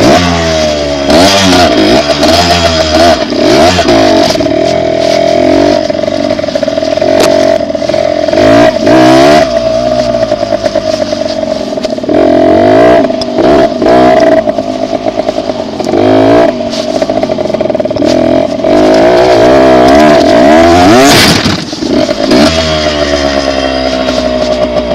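Dirt bike engine running under way, coming in suddenly at the start, its pitch rising and falling again and again as the throttle opens and closes.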